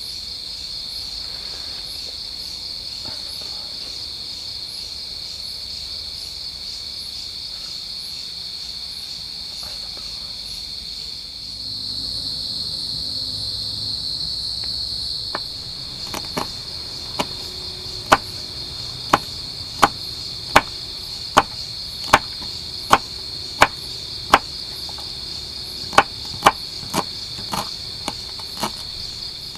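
Crickets chirring steadily in the forest. From about halfway, a series of sharp knocks comes roughly every three-quarters of a second, about fifteen in all.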